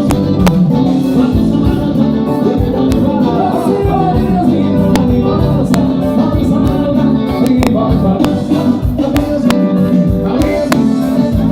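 A forró band playing, with a steady beat of sharp percussion strokes under sustained instrumental tones.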